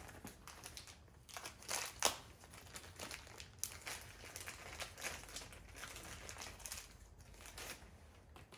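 Faint crinkling and rustling with scattered light clicks and taps, the sharpest about two seconds in: small parts and their wrapping being handled.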